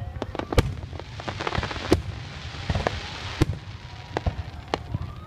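Aerial fireworks shells bursting: a quick string of sharp bangs, about one or two a second, with a crackling hiss from about one to three seconds in.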